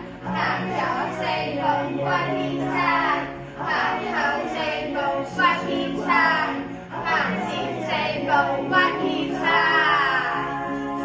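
Pop song: voices singing a melody over a steady backing track.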